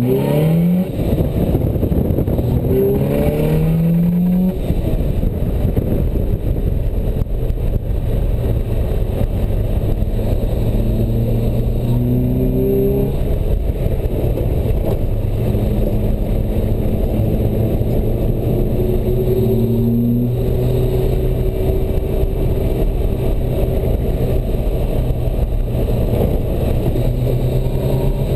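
Sports car engine heard from inside the open cockpit, driven hard on a track: the pitch climbs under acceleration and drops at each upshift, with gear changes about four, thirteen and twenty seconds in, then runs at a steadier pitch near the end.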